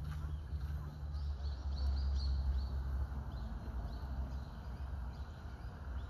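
A quick run of high, thin bird chirps about a second in, lasting a couple of seconds, over a steady low rumble.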